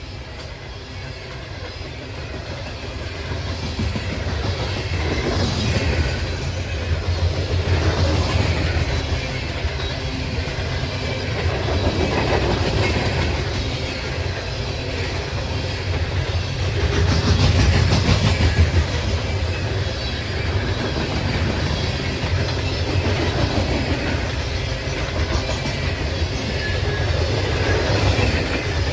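Loaded coal train rolling past at about 38 mph: a steady low rumble with the wheels clicking over rail joints, swelling and easing in loudness.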